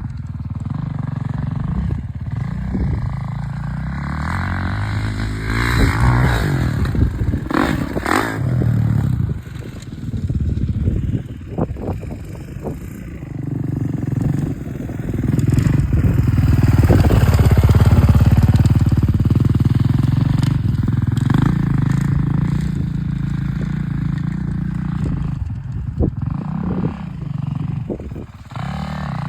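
Dirt bike engine running and revving, rising and falling as the rider works the throttle and gears on the run up to a jump ramp, loudest about two-thirds of the way through, with a few sharp knocks.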